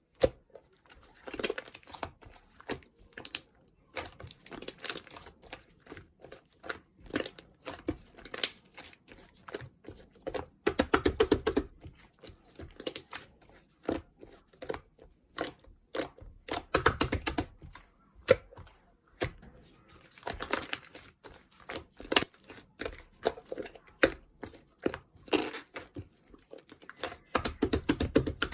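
Slime being squished and stretched by hand, giving quick clicky, crackling pops that come in irregular bursts.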